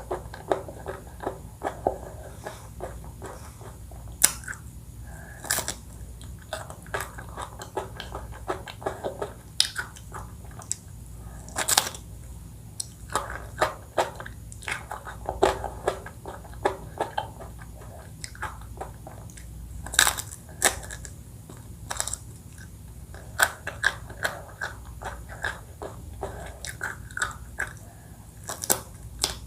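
Close-miked eating of ice cream and cake: biting and chewing, with sharp crunches and crackles coming irregularly, several a few seconds.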